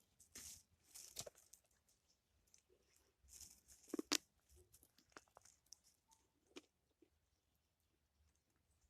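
Faint, irregular footsteps crunching on the forest ground, with a sharper crack about four seconds in.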